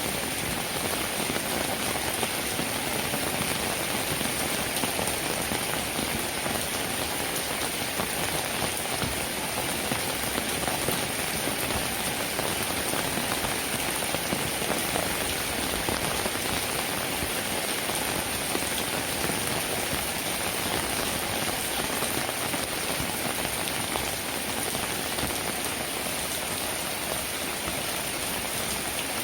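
Steady rain, an even patter of drops that neither builds nor eases.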